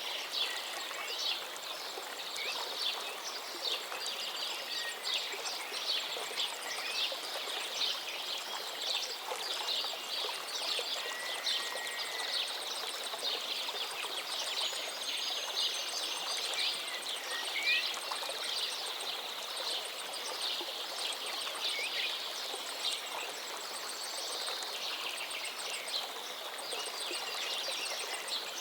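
Flowing river water with a steady rushing hiss, overlaid throughout by many small birds chirping and singing in quick, overlapping calls.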